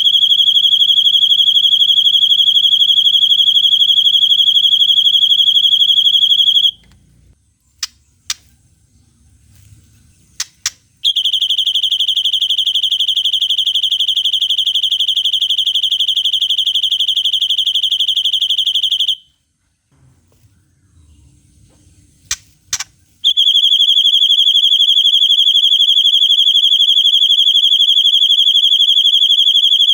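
White-rumped shama (murai batu) singing long, shrill, rapid trills on one steady pitch, the harsh 'tembakan' of a cililin-style song. There are three long trills of about seven to eight seconds each, and a few short sharp call notes in the gaps between them.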